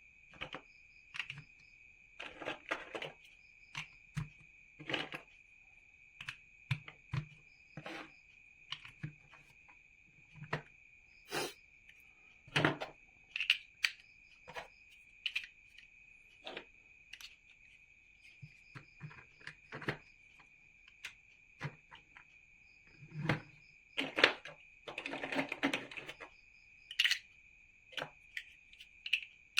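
Plastic building bricks clicking and knocking as they are handled and pressed together, in scattered single clicks with a longer rattling clatter of bricks near the end, over a steady faint high whine.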